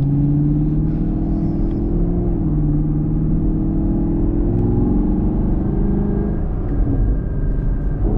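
2021 Camaro SS's 6.2-litre V8 engine and exhaust under way. The engine note drops once about two and a half seconds in, then climbs steadily for a few seconds as the car accelerates, with a few faint sharp ticks.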